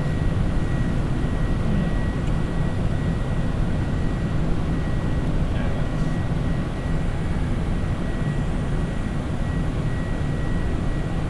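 Steady cockpit noise of a Boeing 747 climbing after takeoff: an even rush of airflow and engine noise, with a faint steady high tone above it.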